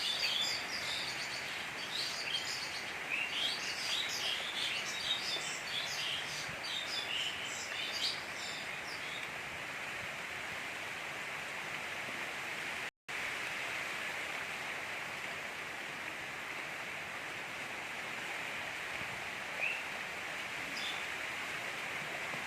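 Steady gentle rain hiss, with birds chirping over it for the first nine seconds or so. The sound cuts out for an instant about thirteen seconds in.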